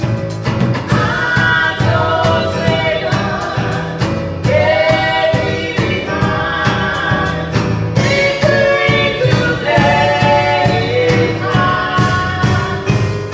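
Gospel choir singing over a band with a steady drum beat.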